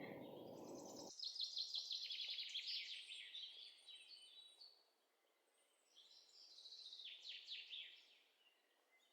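Faint small birds twittering in quick runs of high chirps: one run from about a second in to past four seconds, then another shorter run near the end.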